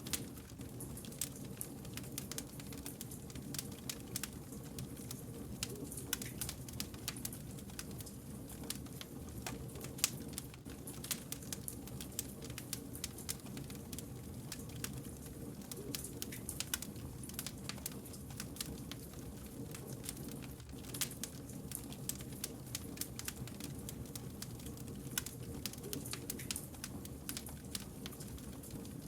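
Campfire of burning wood logs crackling: a dense, irregular run of small sharp pops and snaps over a steady low rumble of the flames, with one slightly louder pop about ten seconds in.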